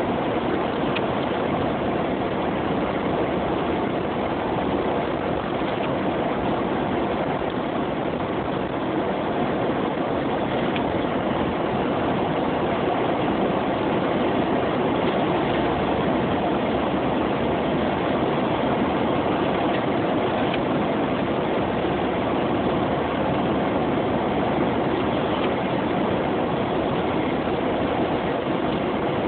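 A Jeep driving through snow: steady engine and road noise that holds even throughout, with no sharp events.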